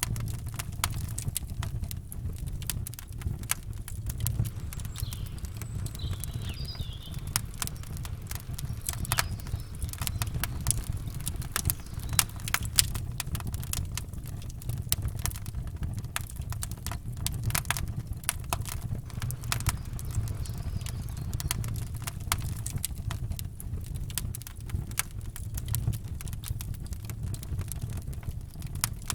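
Campfire crackling: wood popping and snapping in quick, irregular clicks over a steady low rumble. A faint bird chirp comes in briefly about six seconds in.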